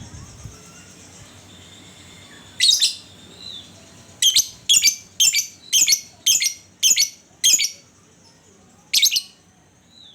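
Lovebird calling in loud, shrill, sharp notes: one call, then a run of eight in quick succession at about two or three a second, and a last one near the end.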